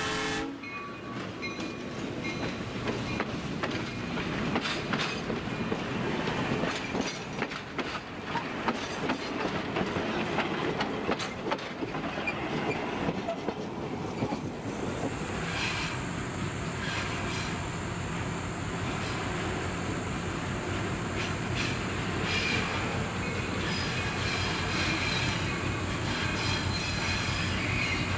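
Passenger coaches rolling past close by, their wheels clicking and clattering over the rail joints. About halfway through the sound changes to a steadier rumble with a fine regular beat as the Lima LS-1000 diesel locomotive brings its train in from a distance.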